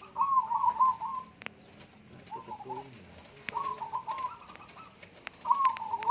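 Perkutut (zebra doves) cooing: four rolling, warbling coo phrases, the first the loudest, with a few sharp clicks between them.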